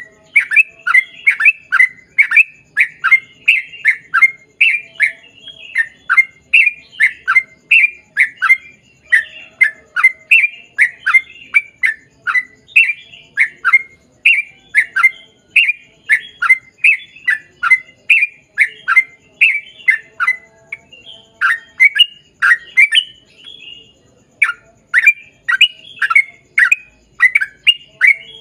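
Yellow-vented bulbul (trucukan) singing a long, fast run of short notes, about three a second, with a brief break about 24 seconds in.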